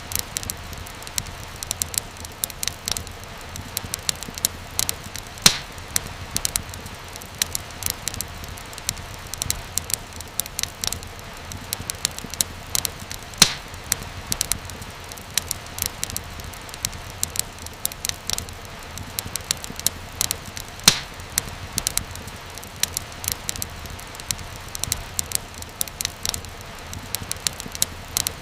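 Wood fire crackling in a fireplace: many irregular sharp snaps and a few louder pops over a steady low hiss.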